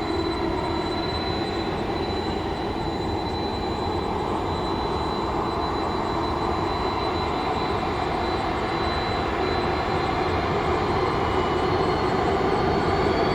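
Jet engines of a Boeing 767-300ER (General Electric CF6-80C2 turbofans) running on the runway just before takeoff: a steady whine over a rumble. In the last couple of seconds the whine starts to rise in pitch as the engines spool up for the takeoff roll.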